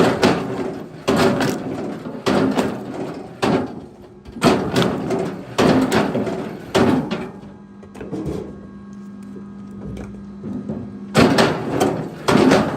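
Heavy wooden knocks and clatters of firewood logs, about one hit a second. They stop for a few seconds past the middle, when a steady low hum is left, and start again near the end.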